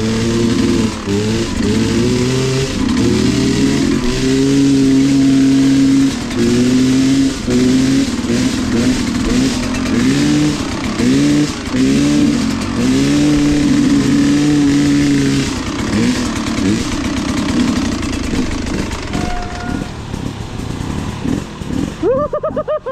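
Off-road vehicle engine revving up and down over and over while working along a muddy trail. It settles to a quieter, lower running about two-thirds of the way in.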